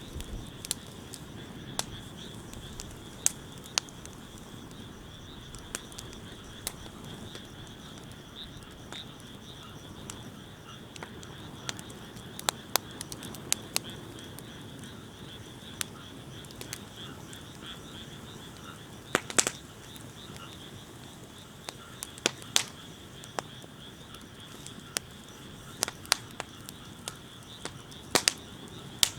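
Wood fire crackling, with sharp pops at irregular intervals, the loudest about two-thirds of the way in, over a low steady rush. Behind it runs a steady high-pitched chorus of calling animals.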